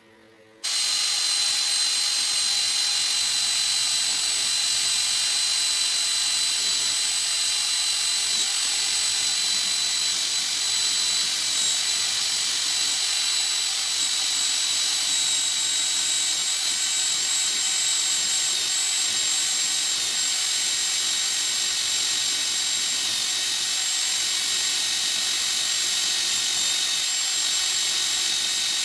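A power tool running steadily: a high-pitched whine over a loud hiss, starting suddenly just under a second in.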